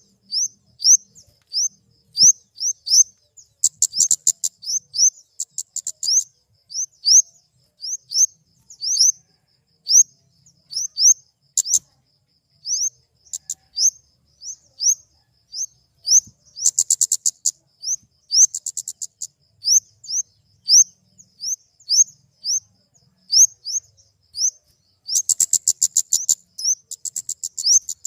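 Flowerpecker (kemade) calling: a string of short, high, sharp upslurred notes, about one or two a second, broken several times by fast, high trills lasting a second or two.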